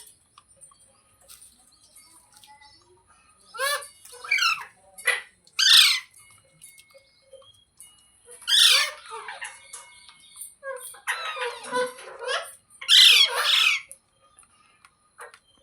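Indian ringneck parrot squawking: short harsh calls in bouts of one or two, with a longer run of chattering calls about three-quarters of the way through.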